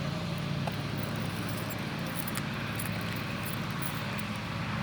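Steady low hum of background road traffic, with faint scattered jingling clicks.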